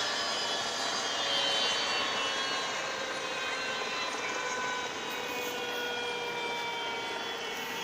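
Helicopter turbine engine whining, its several tones slowly falling in pitch over a steady rushing noise.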